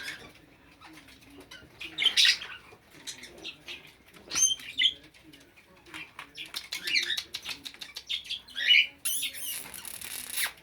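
English budgerigars chirping and chattering in short, scattered calls, with a burst of wing flapping near the end.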